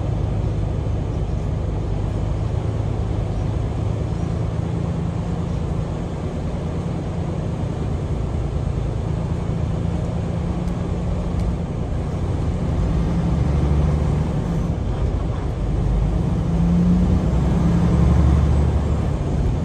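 Semi truck driving: a steady engine drone under road noise, with the engine note rising a little and getting louder in the last several seconds.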